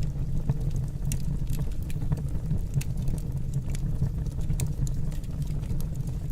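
Wood fire burning in a fireplace: scattered sharp crackles and pops, several a second at irregular intervals, over a steady low rumble.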